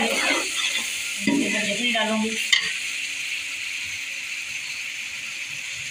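Waterfowl meat in spicy masala gravy sizzling steadily in a large pot. A metal slotted spoon stirs and scrapes through it during the first couple of seconds.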